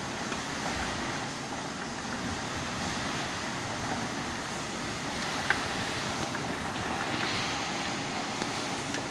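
Heavy rain falling in strong gusting wind, a steady rushing noise, with a single sharp click a little past halfway through.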